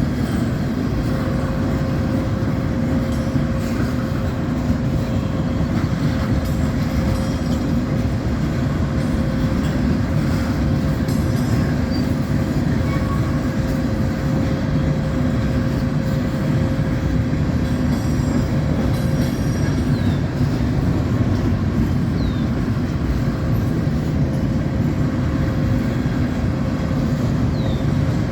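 Freight train of autorack cars carrying new automobiles rolling past: a steady rumble and clatter of steel wheels on rail, with a faint steady whine running through it.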